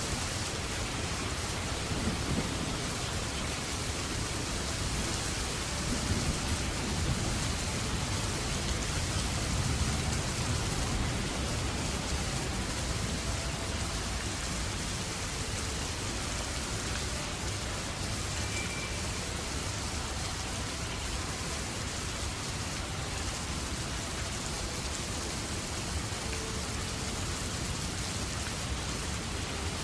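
Steady heavy rain falling, an even hiss, with low rumbling of thunder during the first third.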